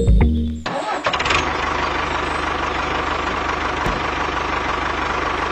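Music cuts off about two-thirds of a second in, and an engine starts and runs on with a steady, rattly, fast-pulsing sound.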